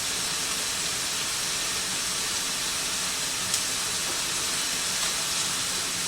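Chopped onions and bell peppers sizzling steadily in a frying pan as they brown, with one small click about three and a half seconds in.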